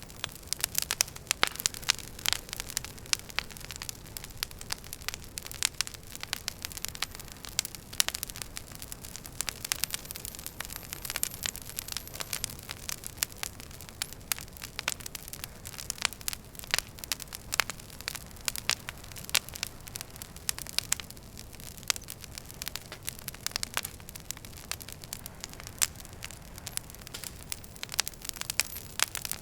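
Wood fire crackling and popping in a fireplace, with many irregular sharp snaps over a steady low hiss.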